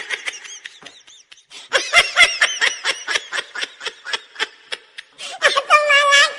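High-pitched giggling: rapid short bursts of laughter, about four or five a second, ending in a longer drawn-out laugh near the end.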